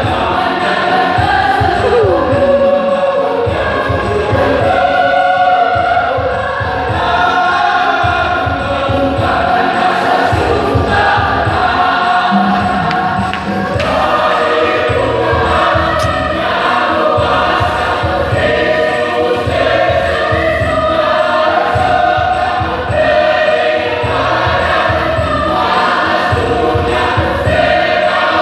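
A choir rehearsing, many voices singing together with several pitches held at once, under a low rhythmic pulse.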